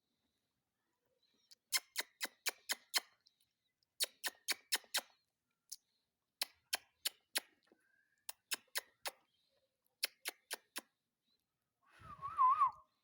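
Indian ringneck parakeet making sharp clicks in quick runs of five or six, then a short warbling call with a wavering pitch near the end.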